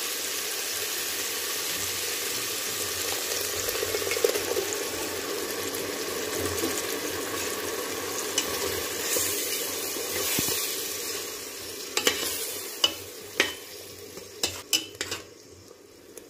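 Freshly ground masala paste frying in oil in a pressure cooker pan, sizzling steadily while it is stirred with a metal slotted spoon as it is sautéed. From about twelve seconds in the sizzling dies down and the spoon knocks sharply against the pot several times.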